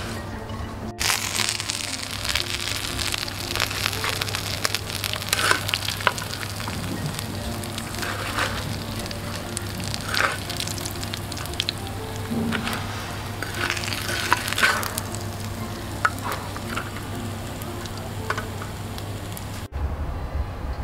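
Fish frying in hot oil, a steady sizzle full of crackles and pops that starts suddenly about a second in and cuts off near the end. Faint background music plays underneath.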